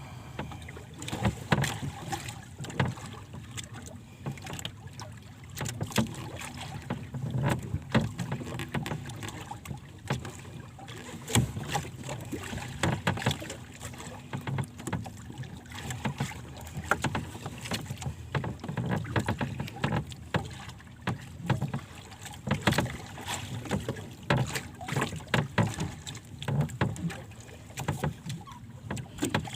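Wind and choppy water against a small boat, with irregular knocks and splashes against the hull and wind on the microphone.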